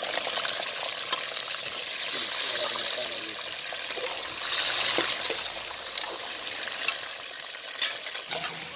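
Chicken pieces frying in hot oil in an aluminium karahi, a steady sizzle with a few sharp clicks of the ladle against the pan. The sound changes abruptly near the end.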